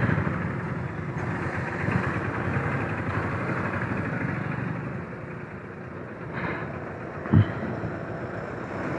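Motorcycle engine running, with steady road and wind noise picked up by a helmet-mounted camera; a short low thump about seven seconds in.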